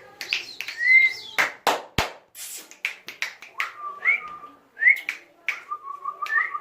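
Macaw parrot giving short rising whistles among sharp clicks and taps, ending in a warbling run of notes.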